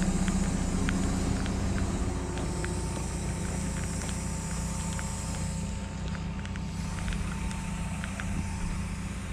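Cat 314E excavator's diesel engine running steadily, gradually getting quieter, with scattered sharp ticks and clicks over it.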